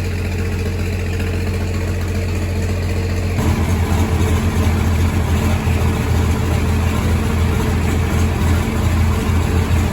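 Old Farmall tractor engine running steadily at idle; about three and a half seconds in it grows louder and rougher, as if throttled up or put under load, and runs on that way.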